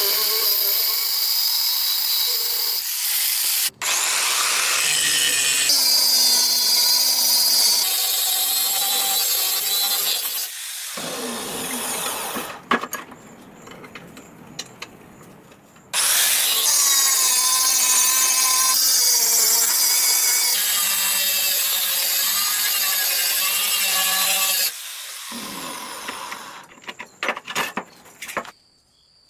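Power grinder grinding the steel of a forged knife blade: a loud, steady, hissing grind with a thin whine, in several stretches that change or stop abruptly, then a few light clicks near the end.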